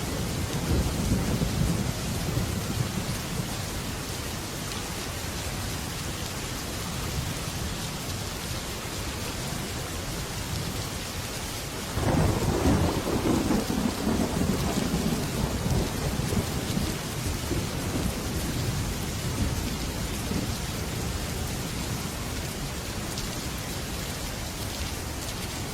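Heavy rain falling steadily on a metal roof, with a low rumble of thunder fading in the first few seconds. About halfway through, a sudden loud thunderclap breaks in and rolls away over several seconds.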